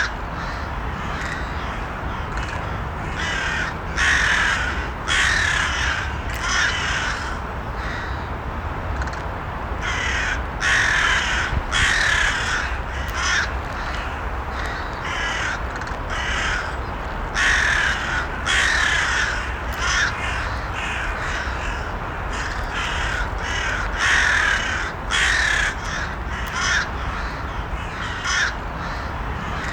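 Crows cawing over and over, in clusters of harsh calls every few seconds, over a steady low background hum.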